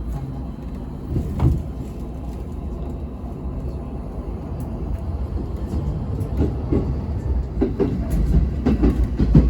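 Electric train running, a low rumble that grows louder through the second half, with a sharp knock about a second and a half in and uneven thumps near the end.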